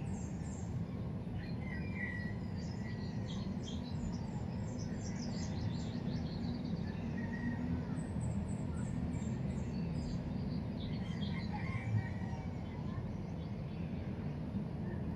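Small birds chirping in quick series of short high notes, in two main bouts, over a steady low background rumble.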